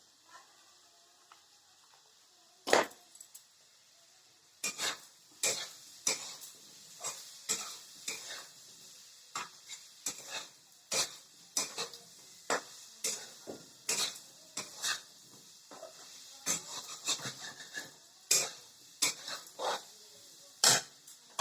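A spatula knocking and scraping against a cooking pan while fried potatoes are stirred with spices, in irregular sharp clacks about one or two a second.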